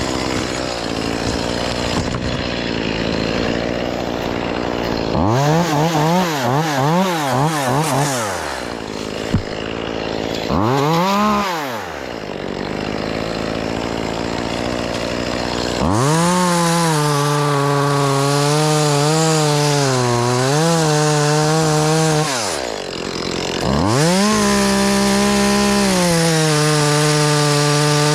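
Chainsaw blipping the throttle in quick bursts, then held at full speed for several seconds at a time while cutting tree limbs, its pitch sagging briefly under load.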